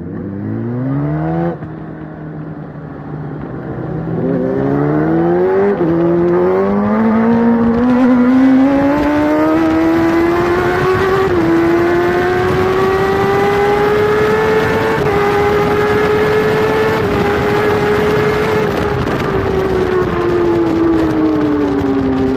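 Onboard sound of a Kawasaki superbike's inline-four engine at racing speed, accelerating hard through several quick upshifts in the first six seconds, then pulling at high revs with a few more shifts. The revs fall away over the last few seconds as the rider backs off. Wind rushes past under the engine note.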